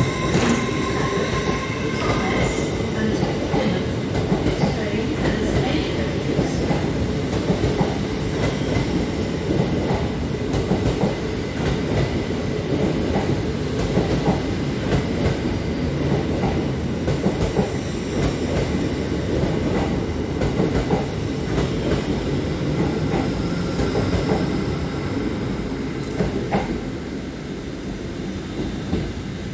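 LNER Azuma high-speed train running past close by, a loud steady rumble of wheels on rail with many quick clicks. A high steady whine stops about two seconds in, and the sound eases off near the end as the train clears.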